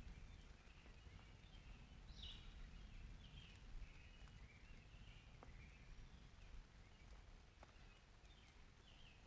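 Birds chirping faintly in short, repeated calls over a steady low rumble, with a few scattered clicks.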